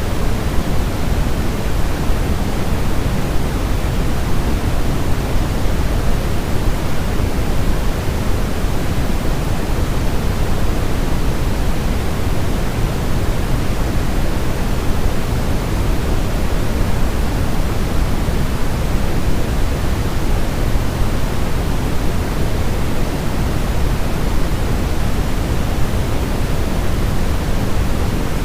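Steady electronically generated white noise for baby sleep: an even, unchanging hiss, fullest in the low end.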